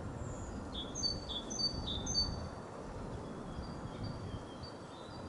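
A songbird singing: a quick series of short, high whistled notes, loudest in the first two seconds and softer after, over a low steady background rumble.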